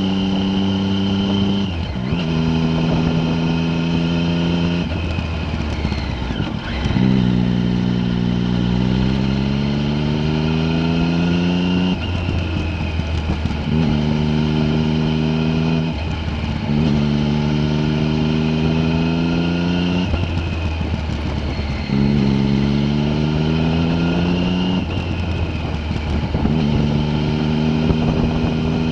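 A vehicle engine running under changing load, its pitch holding or climbing and then breaking off and dropping back every few seconds, about ten times.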